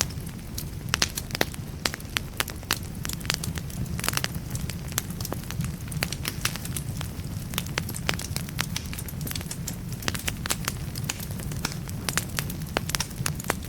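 Wood logs burning in a fireplace, crackling steadily with many sharp, irregular pops and snaps over a continuous low rumble of the flames.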